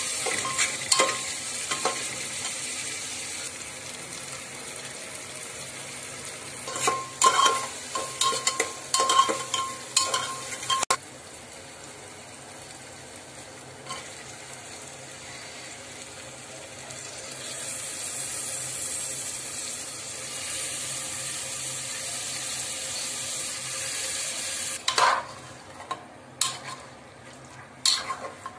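Masala frying in ghee inside an aluminium pressure cooker, a steady sizzle. A metal spoon stirs and scrapes against the pot with ringing clinks in two spells, about a quarter of the way in and again near the end.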